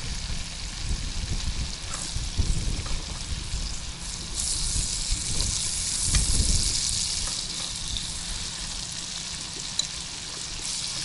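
Chopped leeks sizzling in oil in a frying pan on a camping stove. The sizzle grows louder a little before the middle and eases off near the end, over a low rumble.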